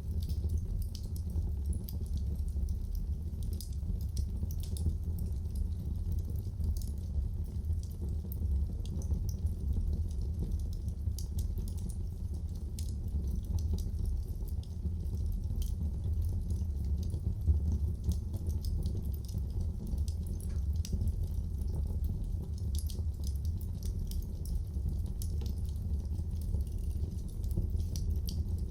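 Wood fire crackling, with many small irregular pops and snaps over a steady low rumble of the burning fire.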